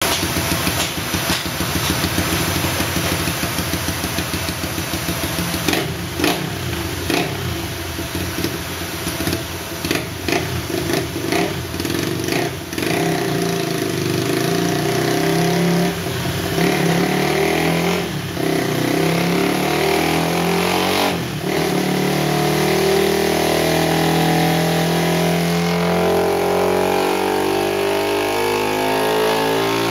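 Modified Yamaha 135LC single-cylinder four-stroke engine, bored to 65 mm and fitted with a custom exhaust, running on a chassis dynamometer. It revs in short, broken bursts for the first half, then settles into a long pull, its pitch climbing steadily as the revs rise under the roller's load.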